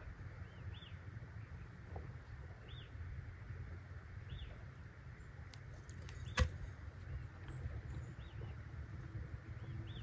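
A bird repeating short, high chirps every second or two over a low, steady rumble. One sharp knock about six and a half seconds in.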